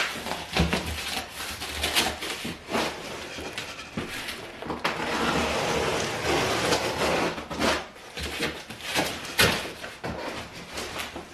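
Furniture packaging being handled during unboxing: a string of knocks and thuds of cardboard and boxed parts being moved, with a few seconds of steady rustling in the middle and a loud knock near the end.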